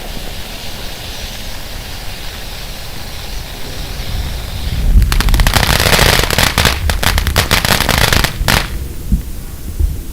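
Firework fountain hissing steadily as it sprays, then breaking into a dense run of crackling about five seconds in, its crackling finale, which stops abruptly a few seconds later.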